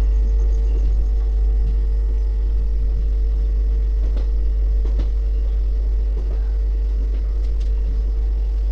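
Passenger train coach running along the track: a steady, loud rumble with a low hum and a few sharp clicks from the wheels.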